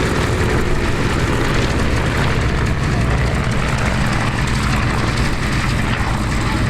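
Avro Anson Mk.I's twin Armstrong Siddeley Cheetah seven-cylinder radial engines running steadily in flight, a loud continuous drone.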